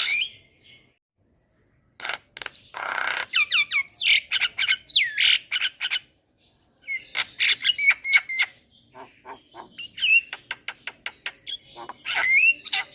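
Javan myna (jalak kebo) singing in loud bursts: gliding whistles mixed with a harsh grating call and runs of rapid clicks, broken by short pauses of about a second, one a second in and another about six seconds in.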